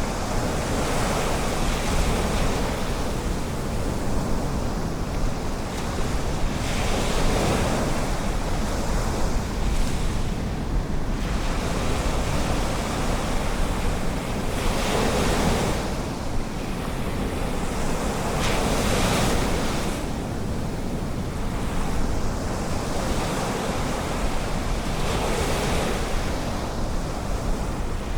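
Ocean surf: waves breaking and washing in, swelling louder every several seconds over a steady hiss, with a low rumble of wind on the microphone.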